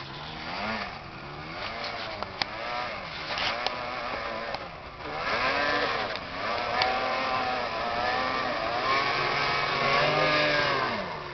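Quad bike engine running with the throttle worked on and off, its pitch rising and falling again and again, more strongly from about halfway through.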